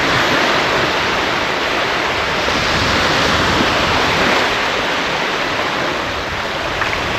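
Surf washing on a beach: a steady rush of small waves breaking at the shoreline.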